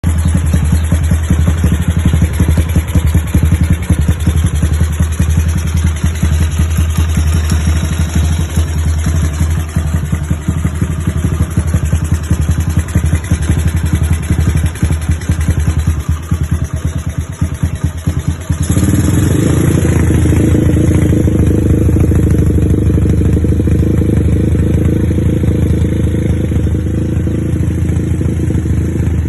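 Old Honda Tiger's single-cylinder four-stroke engine through an ORP7 racing exhaust, idling with a choppy, pulsing beat. About two-thirds of the way in, it steps up to a steady, louder, higher-revving drone that is held.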